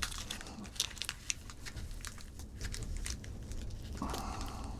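Packing material being unwrapped by hand: crinkling and crackling with scattered sharp clicks, and a short rasping rustle about four seconds in.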